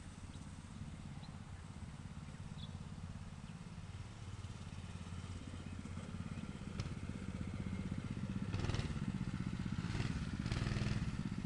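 Dirt bike engine running some way off, getting louder over the last few seconds.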